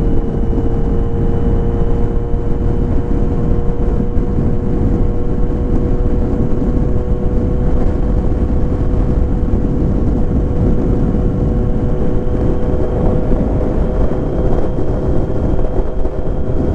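Kawasaki Z900 inline-four engine running at a steady cruise, its pitch holding constant, under a dense rumble of wind.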